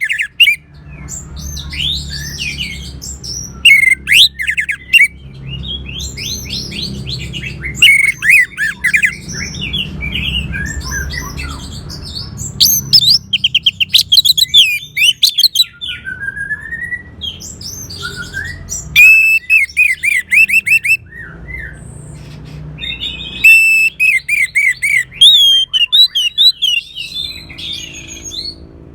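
Orange-headed thrush singing a long, varied song of rapid whistled phrases and trills, delivered in bursts with short pauses between them.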